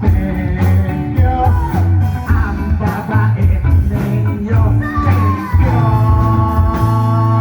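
Rock band playing with electric guitar, bass and drums, and a melody that glides up and down; from about five and a half seconds in, the band settles onto a long held chord.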